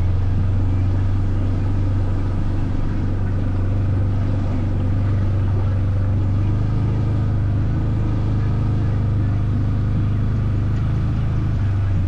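Engine of a four-wheel-drive off-road vehicle running steadily under way, a constant low drone.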